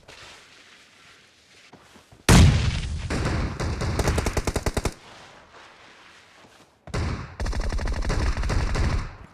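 Automatic gunfire in a first-person shooter video game: two long bursts of rapid fire, the first starting about two seconds in and lasting nearly three seconds, the second starting about seven seconds in and lasting about two seconds.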